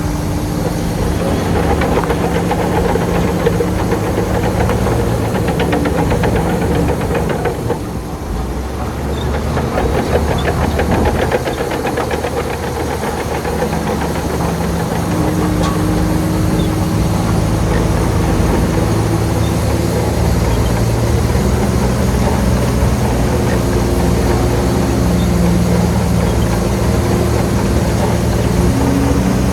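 Heavy diesel engines of earthmoving machinery running under load, their pitch shifting up and down as the revs change, with a fast clattering beat about a third of the way in.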